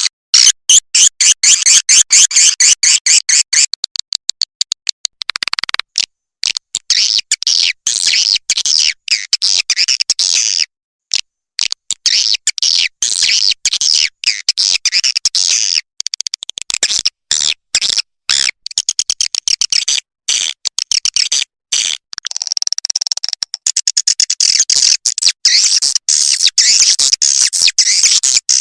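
Swiftlet lure-call recording: rapid, high twittering chirps of swiftlets in dense stretches, cut by short silent gaps. This is the kind of call sound played to draw swiftlets to a nesting house.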